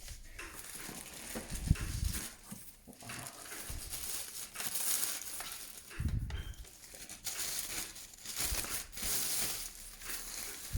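Plastic packaging crinkling and rustling as it is handled and pulled off a robot vacuum, with a couple of dull thumps about two and six seconds in.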